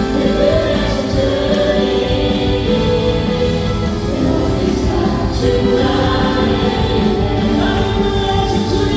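Contemporary worship music: a praise band of keyboards, electric guitar, bass and drums playing while many voices sing together.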